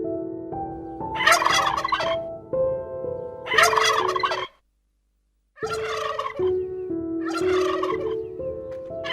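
A bird calling in four loud, noisy bursts about a second long and roughly two seconds apart, over soft background music of held notes; everything cuts out for about a second midway.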